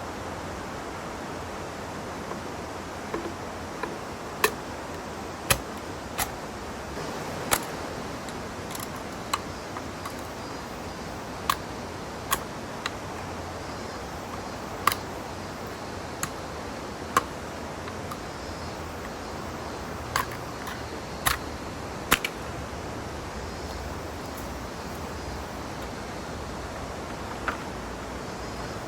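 Wood campfire crackling: irregular sharp pops over a steady hiss.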